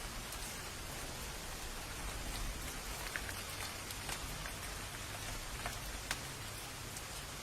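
Steady rain falling, with scattered individual drops ticking sharply on a surface and a low rumble underneath.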